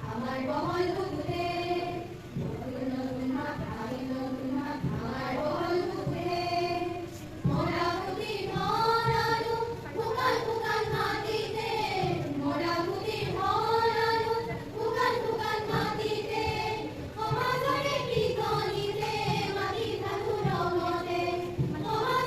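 A group of voices singing a slow song together, in long held notes.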